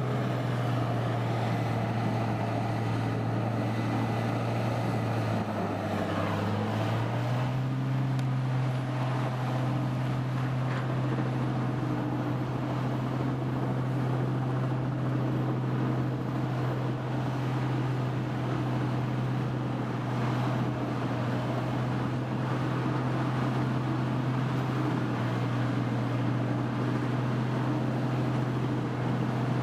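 Engine of a large wood grinder running steadily, its pitch stepping up slightly about seven seconds in.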